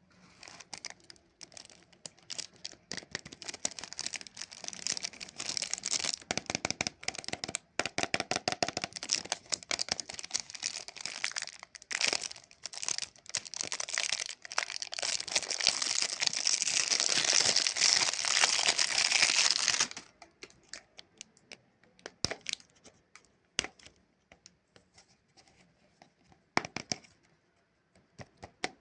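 Plastic lollipop wrapper being crinkled and torn open, a dense crackling rustle that grows louder and stops abruptly about two-thirds of the way through. After that, only scattered faint clicks and crinkles.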